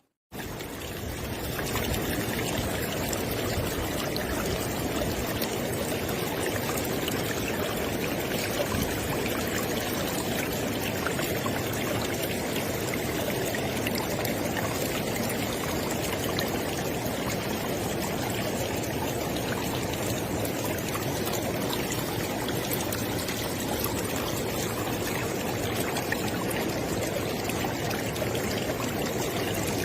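River water flowing, a steady dense rush. It cuts in after a brief silent gap right at the start and fades up within the first second or two.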